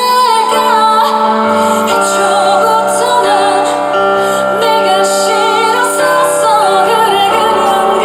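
A woman singing live over band accompaniment, her held notes wavering with vibrato.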